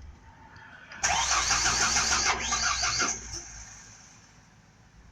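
A vehicle's starter cranking the engine in an attempt to start it. The engine turns over with an even, rapid pulse for about two seconds, then stops.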